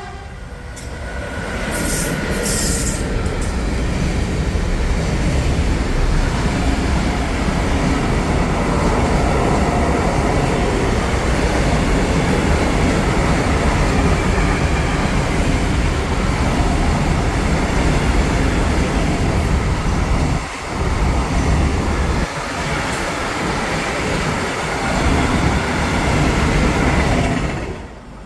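Freight train passing through the station: a loud, steady rumble of wagon wheels on the rails with a brief high squeal about two seconds in. It cuts off sharply near the end.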